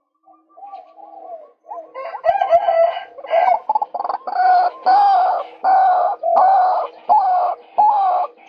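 Male white-breasted waterhen calling: a soft note first, then from about two seconds in a run of loud, harsh, repeated calls, about two a second.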